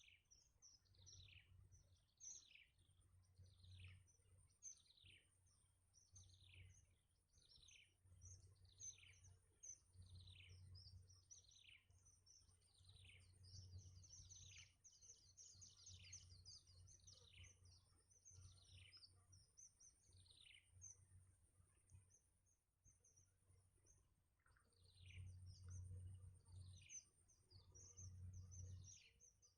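Faint small-bird chirping: a string of high calls, each sliding sharply downward, at about one a second, bunching closer together about halfway through. They stop for a few seconds near the end, then resume.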